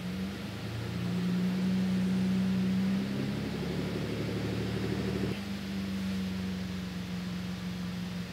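The 3.6-litre V6 engine of a 2020 Chevrolet Colorado running with a steady hum, a little louder from about one second in and settling after about five seconds.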